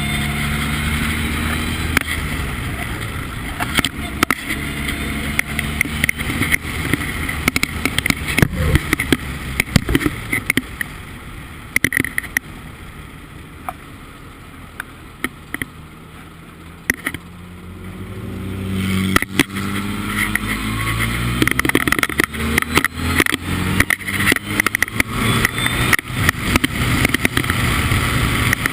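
Formula Ford race car's engine on track: the revs fall at the start, the engine runs quieter through the middle, then revs climb again in repeated rising sweeps as the car accelerates through the gears. Sharp knocks and rattles are scattered throughout.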